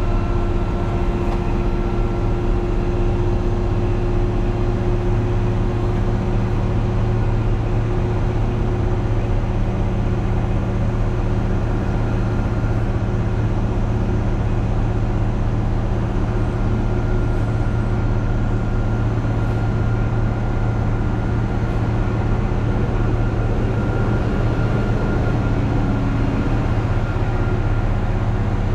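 Truck engine running at a steady, even speed, a constant low drone with no change in pitch.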